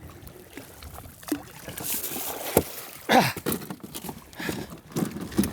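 Water splashing and a sharp knock against a kayak as a large amberjack is hauled aboard by the tail, with scuffling handling noises throughout.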